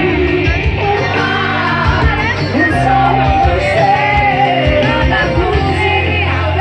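Live band music, loud and steady, with a vocalist singing over a continuous bass line.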